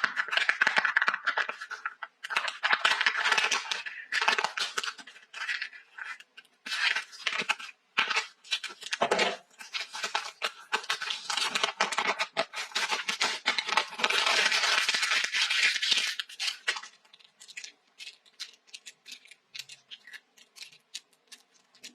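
Packaging being opened by hand: wrappers rustling and tearing, with many small clicks and taps. After about 17 seconds it thins out to scattered light clicks.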